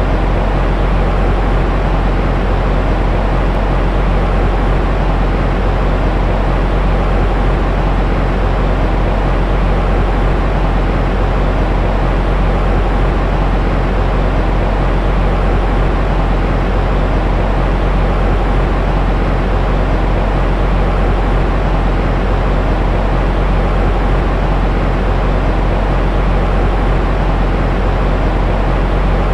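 Steady, unchanging white noise of the kind played to settle a crying baby to sleep: an even rushing hiss, heaviest in the low end and dull in the highs, with no rhythm or breaks.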